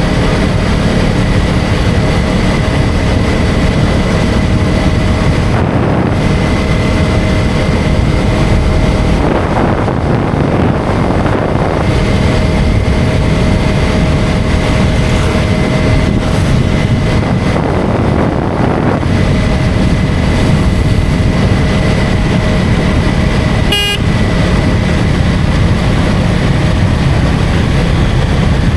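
KTM Duke 250 Gen3's single-cylinder engine running steadily at road speed, mixed with wind and tyre noise on a riding motorcycle. A brief horn toot comes near the end.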